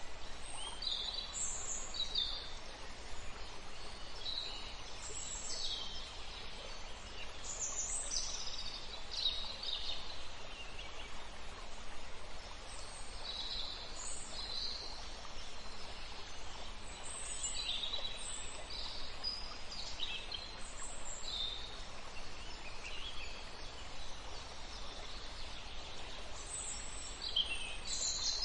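Songbirds calling: many short, high chirps scattered throughout, over a steady low background rumble.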